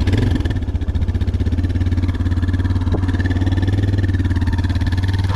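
Motorcycle engine running steadily with a fast, even pulse, during a tow-start of a bike whose battery is dead.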